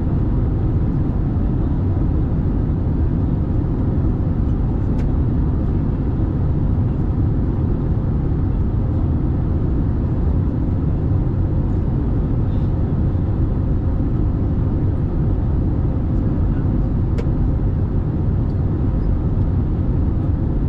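Airbus A320 cabin noise: steady low engine and airflow rumble with a faint, even hum, and two small clicks, one about 5 seconds in and one near the end.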